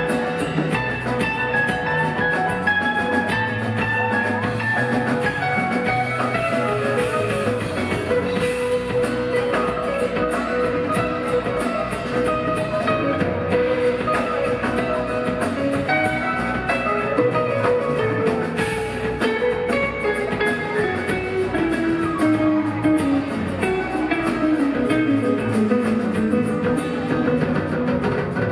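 Live rock band playing an instrumental jam: lead electric guitar over bass, keyboards and drums, with a melodic line sliding steadily lower in the second half.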